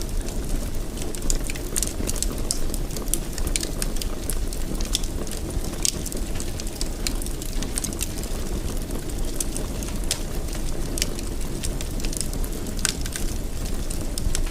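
Wood fire in a fireplace, crackling and popping irregularly over a steady low rumble of the flames.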